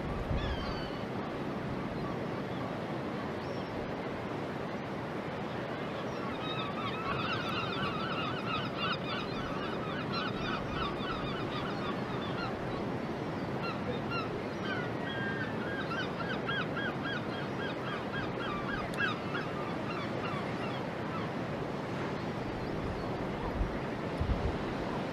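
A bird calling in two long runs of rapid honking notes, over steady outdoor noise from wind and water.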